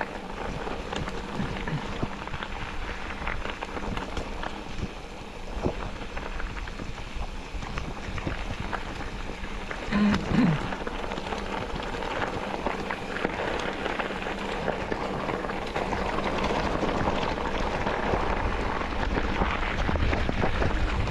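A vehicle driving over a stony dirt track, its tyres crunching and rattling on loose stones, louder in the second half. About ten seconds in there is a brief pitched sound.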